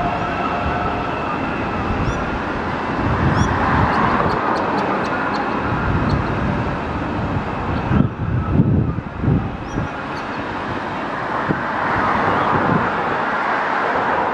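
A CRH1A electric multiple unit running past and away along the line, its rumble fading. Wind buffets the microphone in gusts about eight to ten seconds in.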